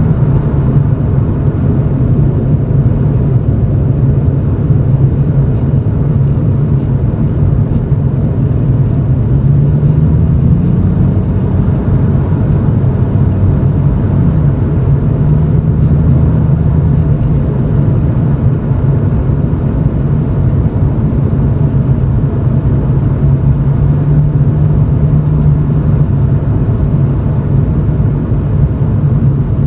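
Toyota Chaser GX100's straight-six exhaust through an aftermarket Reinhard cannonball muffler with its silencer insert fitted, heard from inside the cabin at low road speed: a steady low drone that rises slightly in pitch about a third of the way in, then settles back.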